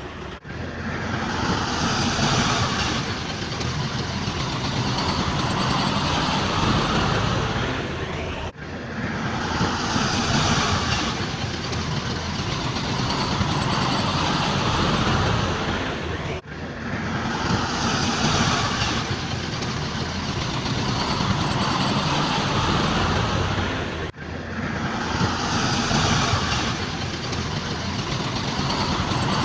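Heavy machinery engine noise, a steady rough running sound. The same stretch of about eight seconds repeats several times, each repeat starting after a brief dropout.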